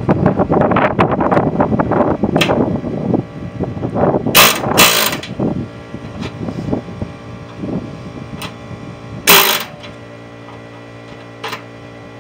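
A handheld power tool rattling and hammering against metal for about three seconds, followed by scattered metal knocks. Three short, loud hissing bursts come about four and a half seconds in, again half a second later, and once more about nine seconds in.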